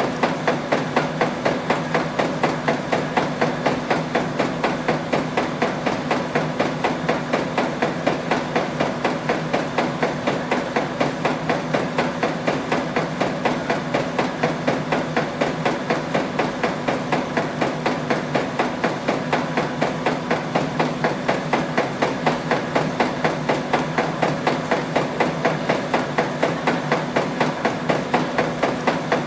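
Automatic folding machine running steadily, with a fast, even rhythm of clacks over a low hum.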